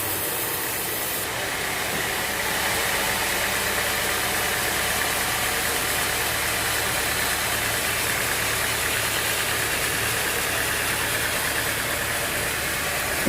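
Sawmill machinery running steadily: an engine with a steady hiss over it, a little louder from about two and a half seconds in.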